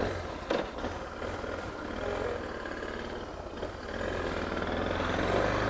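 Suzuki DR650's single-cylinder engine running steadily at low revs, getting a little louder about four seconds in.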